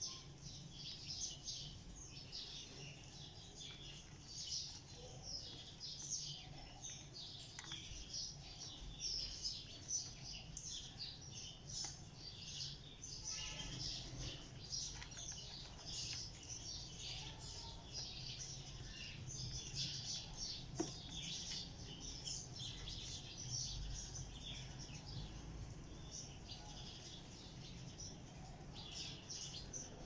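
Small birds chirping continuously in many short, high, overlapping notes over a faint, steady low hum.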